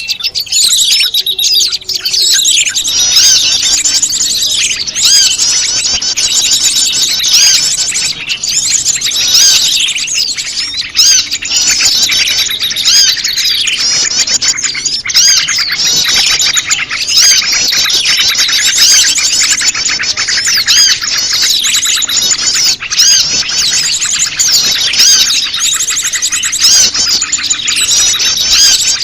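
Prenjak lumut calls mixed into a busy chorus of small songbirds: many rapid, high chirps and trills overlapping without pause. It is a bird-lure recording meant to draw wild prenjak lumut.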